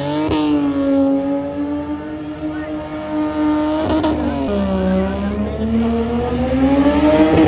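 Car engine revving hard, held at high revs. Its pitch drops about halfway through, then climbs again.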